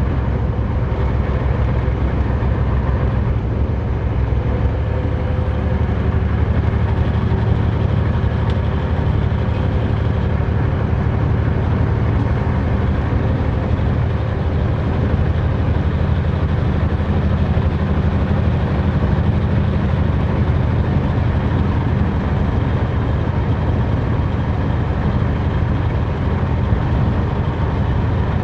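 Semi truck cruising on the highway, heard from inside the cab: a steady low diesel engine drone and road noise.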